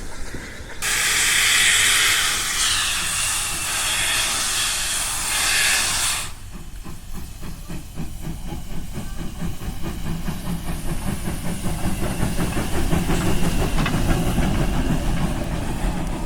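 Steam locomotive blowing off steam in a loud hiss for about five seconds, cut off suddenly, followed by a lower rumbling with a fast, regular beat.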